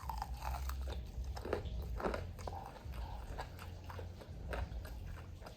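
Close-up chewing and biting of crispy lumpia-wrapped fried chicken, with irregular crunches, over a low steady hum.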